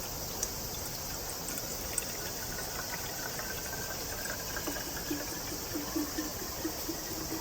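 Water trickling with small gurgles, repeating quickly in the second half, over a steady chorus of insects.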